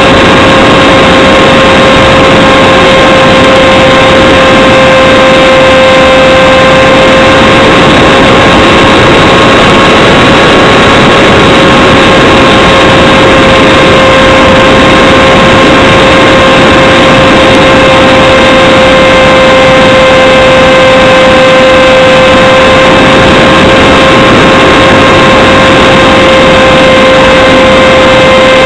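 Radio-controlled Radjet 800's electric motor and propeller running at steady throttle, heard close up as a loud, even whine with a rush of wind noise; the pitch barely changes.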